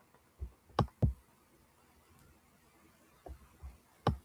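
A pause in a quiet room holding a handful of short clicks and soft knocks: three within the first second or so, then three more near the end.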